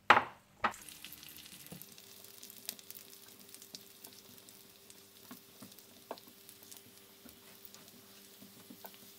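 Raisins frying in hot desi ghee (clarified butter). It opens with two sharp loud noises in the first second, then settles into a steady sizzle with scattered small crackles and pops.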